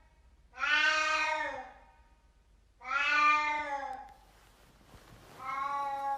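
Domestic cat meowing three times: long, drawn-out meows of about a second each, evenly spaced about two seconds apart.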